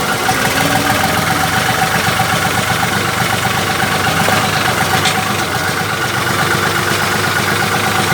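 Tractor engine running steadily at idle, with one brief click about five seconds in.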